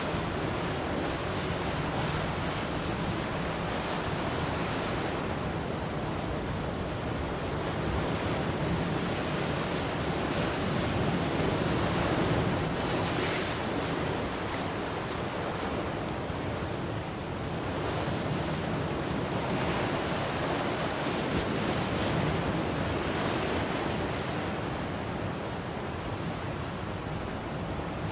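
Ocean surf: waves breaking and washing in as a continuous rush that slowly swells and eases, loudest about halfway through.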